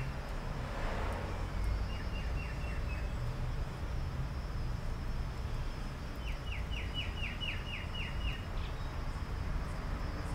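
A bird calling in three runs of quick, short descending notes, the last run the longest at about nine notes, over a steady low hum.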